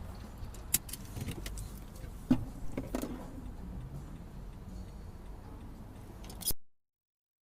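Low, steady rumble of a car with a few sharp clicks and rattles, then the sound cuts off to dead silence about six and a half seconds in.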